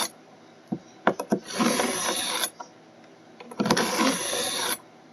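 A dull knife blade drawn twice through the coarse slot of a SHARPAL 101N pocket knife sharpener: two rasping strokes of about a second each, with a few light clicks before the first as the blade is set in the slot.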